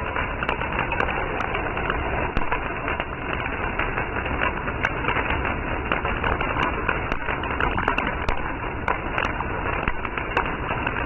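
Wood bonfire burning, crackling with frequent irregular sharp pops over a steady rushing noise.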